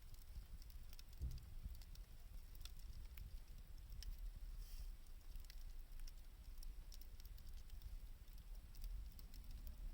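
Wood fire crackling faintly: scattered small pops and ticks, with a low rumble underneath and one brief hiss about halfway through.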